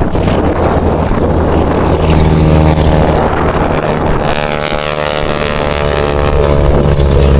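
Wingwalking biplane's piston engine droning in flight, with wind on the microphone. The engine note comes through clearly from about two seconds in and grows louder toward the end.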